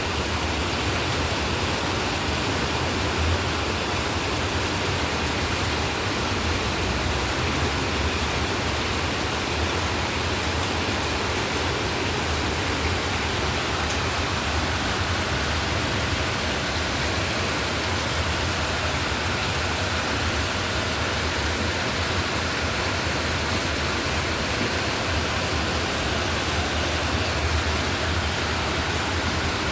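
Heavy rain pouring down, a steady even hiss of water that does not let up.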